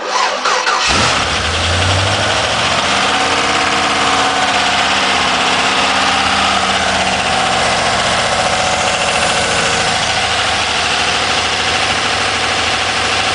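GM LS1 5.7-litre V8 on an engine test stand finishing its cranking and catching about a second in. It flares briefly as it fires, then settles into a steady idle. It is being test-run after a rebuild with a new oil pump, fitted because it had no oil pressure.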